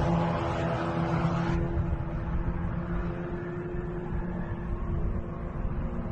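Car engine running steadily with low road rumble, picked up inside the cabin by a dash camera's microphone. A higher hiss over it stops about a second and a half in.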